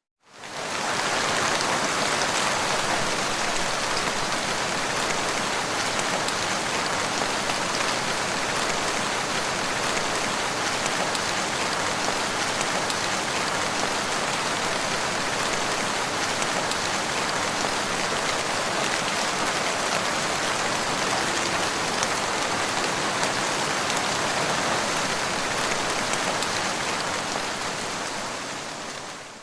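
Steady rain, an even hiss of falling drops with no thunder; it fades in at the start and fades out near the end.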